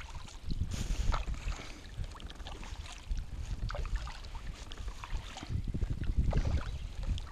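Wind gusting on the microphone as uneven low rumble, with water lapping and small splashes and knocks around a fishing kayak.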